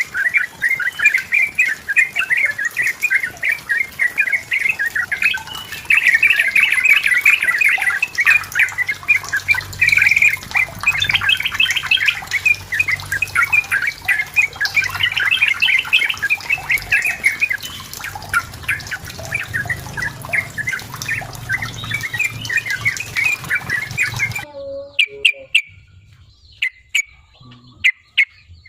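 Yellow-vented bulbul (trucukan) singing hard and without pause, a dense run of rapid, bubbly chattering phrases. About 24 seconds in the song cuts off abruptly, leaving only scattered short notes.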